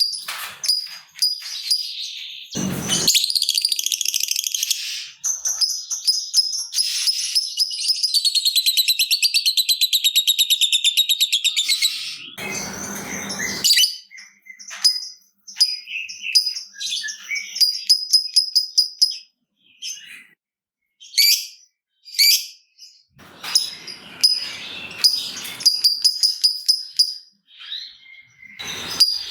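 Lovebird chattering: rapid, high-pitched ticking notes and a long fast trill (the 'ngekek') from about six to twelve seconds in, broken by brief pauses. A few short, noisy bursts come in around three, thirteen and twenty-four seconds in.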